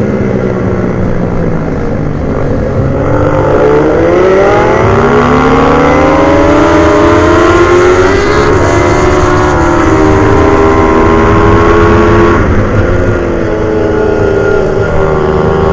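Motorcycle engines on a race track revving hard, their pitch climbing and dropping through gear changes and corners, with two engine notes crossing each other about halfway through.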